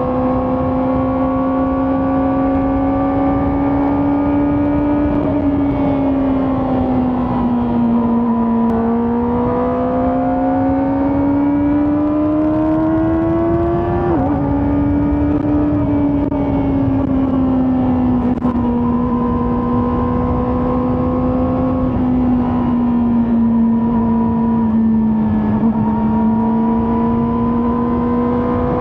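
Kawasaki ZX-4RR's 399 cc inline-four engine and exhaust under way at steady mid revs, its pitch rising and dipping gently as the throttle changes. About halfway through the pitch drops suddenly, then holds. Wind rush runs underneath.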